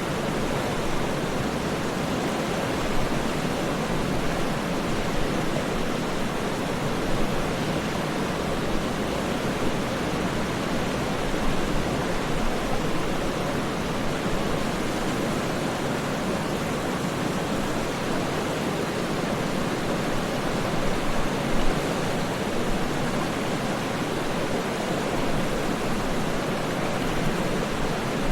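Waterfall: a steady rush of falling water, an even noise with occasional brief small surges.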